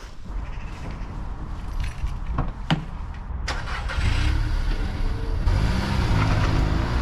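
A car engine running, growing louder about four seconds in, its pitch rising and falling, with two sharp clicks a little before the middle.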